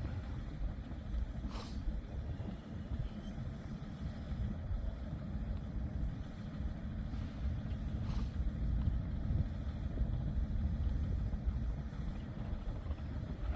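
Steady low engine rumble with a couple of faint clicks.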